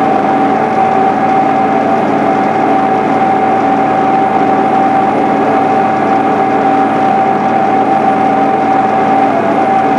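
Six-cylinder Cummins diesel of a John Deere 8970 tractor running steadily, with a constant high-pitched whine over the engine noise.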